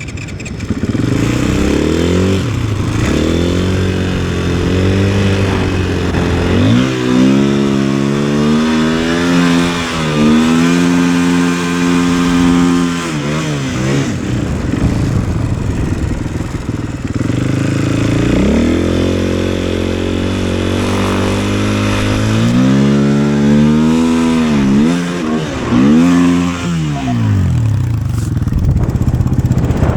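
Snowbike's single-cylinder 450 four-stroke dirt-bike engine pulling under load, the revs climbing and falling with throttle and gear changes, with several quick dips where the throttle is chopped, about 13 seconds in and again between 24 and 27 seconds. Wind rushes over the microphone throughout.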